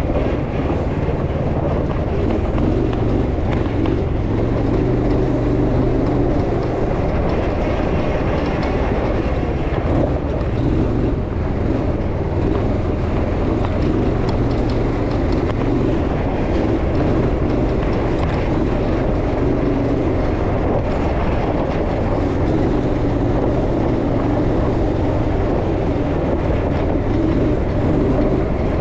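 Gemini off-road buggy's engine running continuously as the buggy is driven round the course, with steady noise from the ride.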